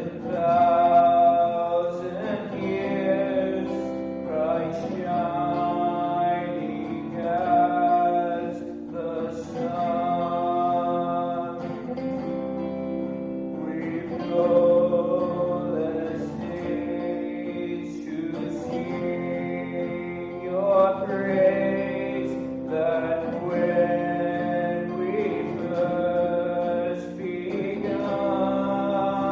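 A man singing a slow worship song in long held phrases, accompanied by a strummed acoustic guitar.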